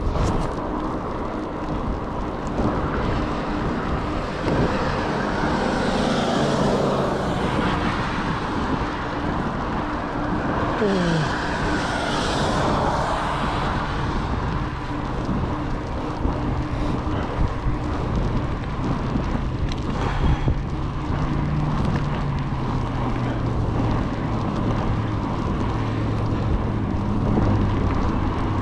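Wind rushing over the microphone and road noise while riding, over a steady engine hum, with vehicles swelling past about 6 and 12 seconds in.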